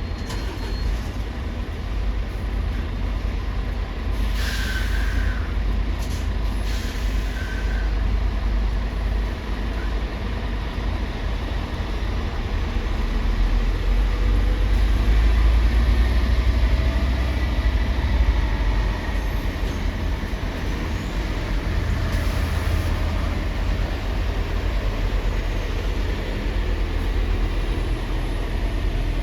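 Steady low rumble of heavy vehicles, with short hisses of air brakes about four and six seconds in and again a little past the middle.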